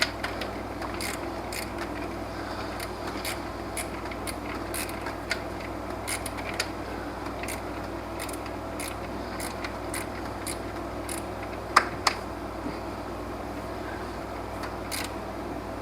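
Scattered metal clicks, taps and knocks from hand tools working on a car engine's belt and alternator hardware, with two sharper knocks about twelve seconds in and a steady low hum underneath.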